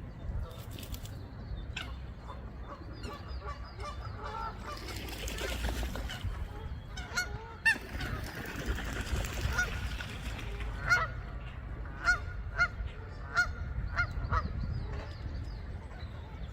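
Goose honking: a series of short, separate honks about a second apart, starting about halfway through, over a steady low rumble.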